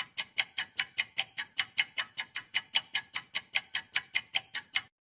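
Rapid, evenly spaced ticking, about five ticks a second, cutting off abruptly near the end.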